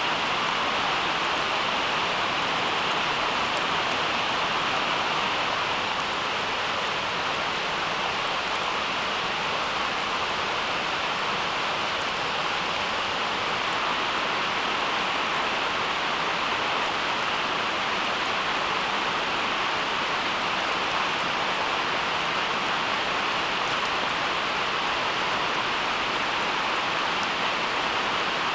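A steady, even rushing noise with no breaks or events in it, like heavy rain or falling water.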